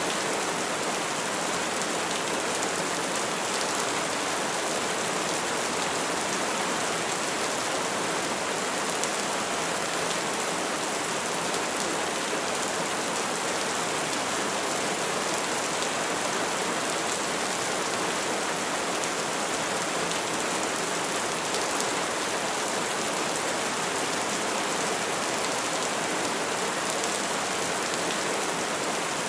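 Steady rain falling: a dense, even hiss of drops with no thunder clap in this stretch.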